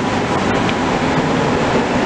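DB class 423 S-Bahn electric train pulling out of an underground station: a steady rumble of wheels on rail, with a faint steady tone over it, heard in the station's tunnel.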